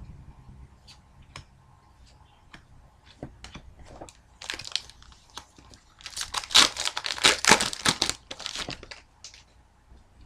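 Foil wrapper of an Upper Deck hockey card pack crinkling and tearing as it is opened, loudest for about three seconds past the middle, with a few light ticks before it.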